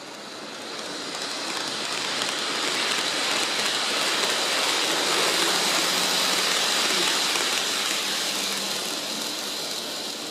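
N-gauge model train (a KiHa 81 series model) running past on the layout track: a steady hiss of wheels on rail with a faint motor hum. It grows louder over the first few seconds, holds, then fades near the end.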